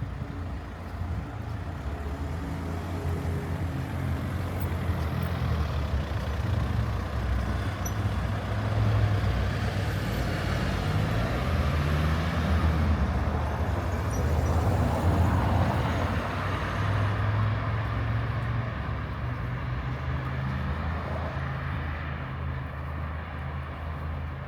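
A large road vehicle's engine running close by, its pitch rising as it speeds up around the middle. Road noise swells and then fades as it passes.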